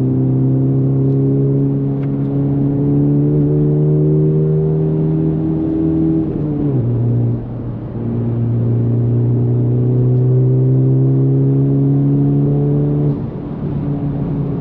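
Honda Civic Type R FL5's turbocharged 2.0-litre four-cylinder running through an AWE Touring exhaust under acceleration, heard from inside the cabin. The engine note climbs steadily, drops sharply about six and a half seconds in at an upshift, climbs again, and falls once more near the end.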